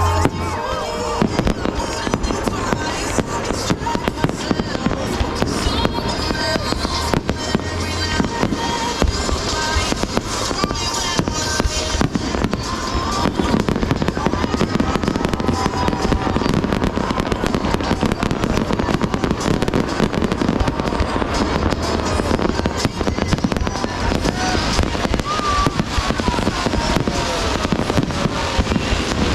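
Aerial fireworks going off in a rapid, continuous barrage of bangs and crackling.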